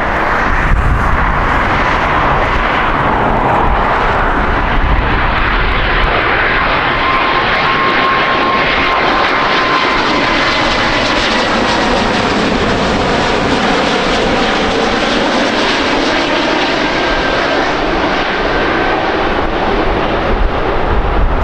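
Jet airliner passing close by: a loud, steady rush of engine noise that swells in brightness toward the middle and eases off again, with a faint whine that slowly drops in pitch.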